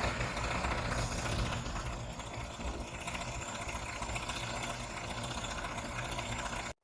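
John Deere 6410 tractor's diesel engine running steadily; it cuts off abruptly near the end.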